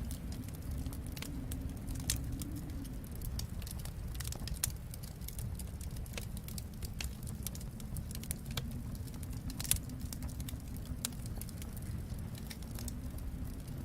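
Wood fire crackling in a fireplace: irregular sharp pops and snaps, a few louder ones, about two, five and ten seconds in, over a steady low rumble.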